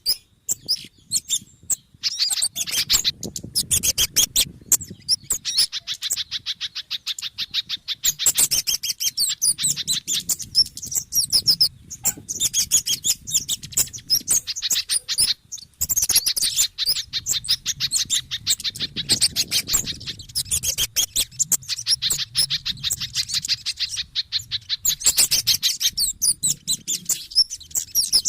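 Bird-lure recording of small songbirds' agitated calls, a mix of kemade, sogon and pijantung (spiderhunter): rapid, high-pitched chattering chirps in dense runs with short pauses between them.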